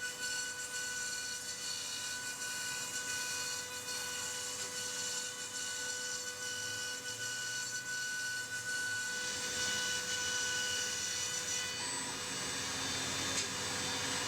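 CNC milling machine cutting polyethylene foam: a steady spindle whine over a rasping cutting noise, which grows a little louder and fuller about nine seconds in.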